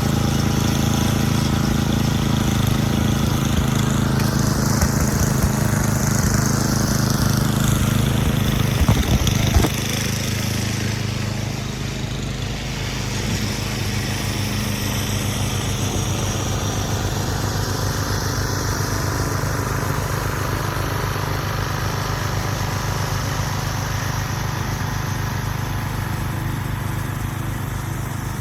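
An engine running steadily, with a short, louder noisy burst about nine seconds in, after which the engine runs a little quieter.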